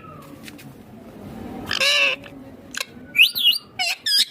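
Indian ringneck parakeet calling: two high, pitched calls, one about two seconds in and a rising-and-falling one a second later, with a few short clicks between.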